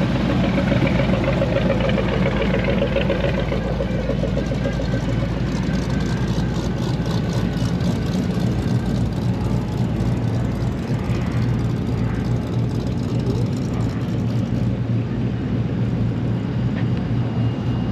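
Off-road vehicle engines idling and running steadily, a constant low engine hum.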